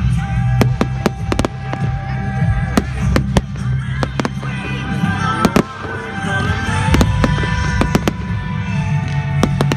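Fireworks bursting: a rapid, irregular run of sharp bangs and crackles over a low rumble, with music playing underneath.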